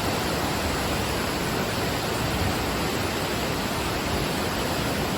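Flood-swollen creek rushing in a steady, unbroken roar of high water.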